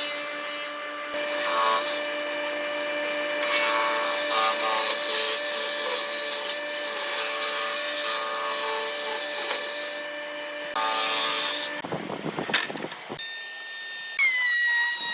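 Power tool cutting or working wood, a steady motor tone over the noise of the cut. Near the end it breaks off and gives way to gliding, whistle-like tones.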